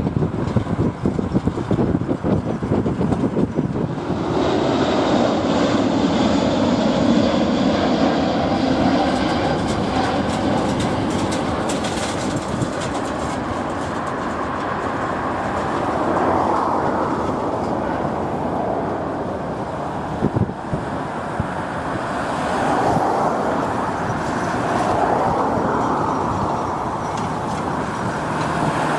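Jet airliner engines roaring steadily during a takeoff, rising in and swelling slowly, with wind buffeting the microphone during the first few seconds.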